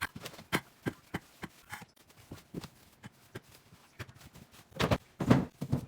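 A run of irregular light taps and knocks, two to three a second, with a louder cluster of thuds near the end: food containers and items being handled and set down while restocking a fridge.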